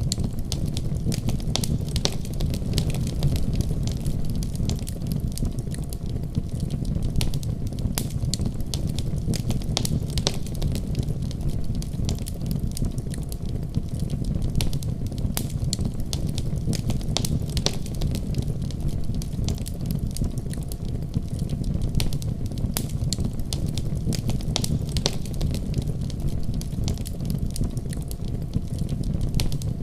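Fire crackling in a fireplace: many irregular sharp pops and snaps over a steady low rumble.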